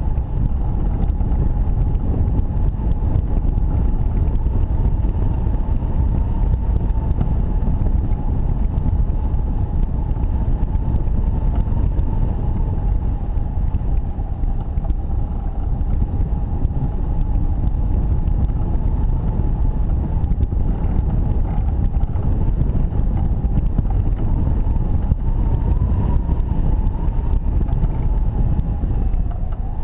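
Airflow rushing over the microphone of a hang glider in flight in strong wind, a loud, steady low rumble. Through it runs a steady high whistle that wavers slightly in pitch.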